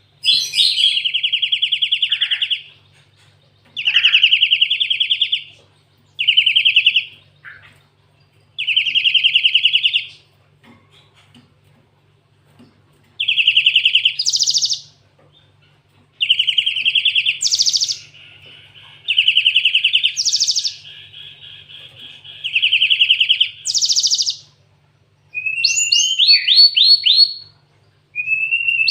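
Cinereous tit (gelatik batu) singing canary-like song fills: a string of rapid trilled phrases of a second or two each, broken by short pauses, several ending in higher notes. Near the end it switches to a fast run of rising and falling whistled sweeps.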